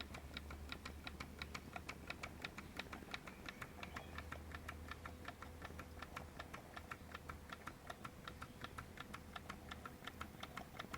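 Mamod SP6 miniature stationary steam engine with a double-acting cylinder, gas-fired, running slowly: a faint, even ticking at about four beats a second. Quiet, not very noisy.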